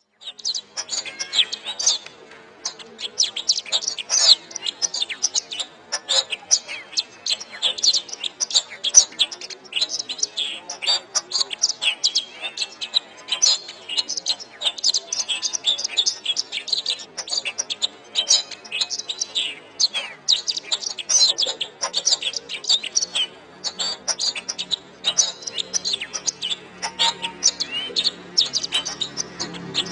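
Domestic canary singing a long, fast warble of rapid chirps and trills without pause. A low steady hum joins in during the last third.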